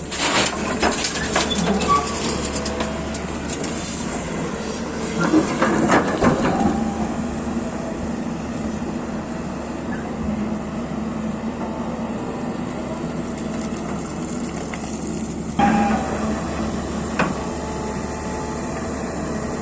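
Excavator's diesel engine running with a steady drone, with louder rattling and clanking near the start and again about five to seven seconds in, and a sudden clank at about fifteen and a half seconds.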